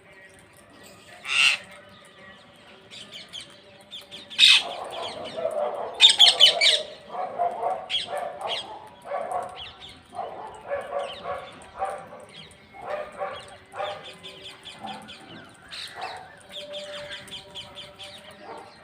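Parrots calling: loud harsh squawks about a second and a half in, again at four and a half and six seconds, the loudest near six seconds, then runs of short, quick chattering calls.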